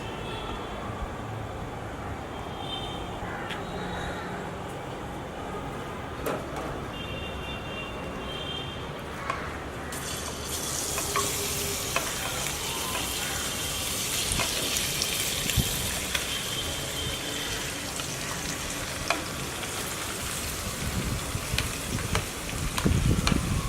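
Food frying in hot oil in a pan: a sizzle starts suddenly about ten seconds in and keeps going, with scattered clicks and scraping of a spoon stirring in the pan, which gets louder near the end.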